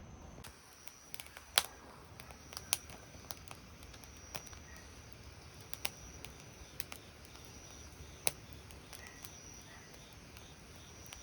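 Sparse, irregular sharp pops and crackles from a wood-fired grill, over a quiet background with a faint steady high-pitched whine.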